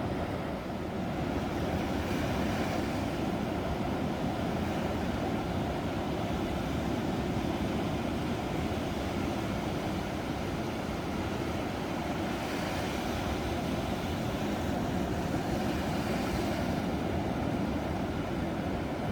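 Ocean waves breaking on the shore: a steady low rush of surf, with a wave washing in more brightly about two seconds in and again for several seconds past the middle.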